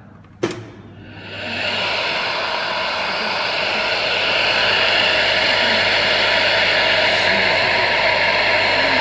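Ionised-air bottle washing machine switched on with a click, then its air blast starting: a rushing hiss with a low hum that builds over about a second and runs on steadily.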